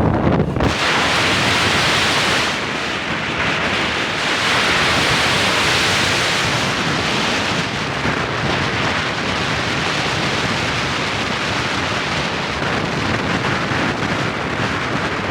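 Steady rushing hiss of wind over the microphone while riding a bike, with no distinct engine note or other clear event.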